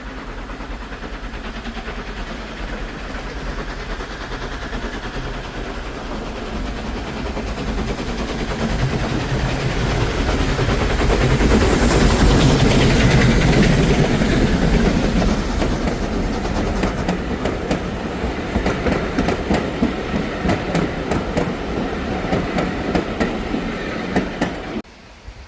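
A train passing close by, building to its loudest about halfway through, then the rhythmic clickety-clack of carriage wheels over rail joints. The sound cuts off suddenly near the end.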